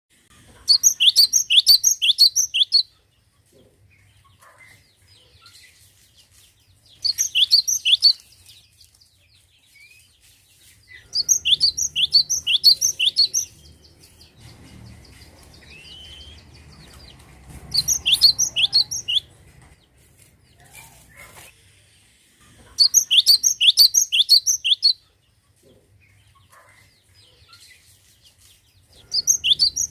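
Cinereous tit (glatik batu) singing in loud bouts of rapid, sharp, repeated notes, each bout lasting one to two and a half seconds, with a pause of a few seconds between bouts.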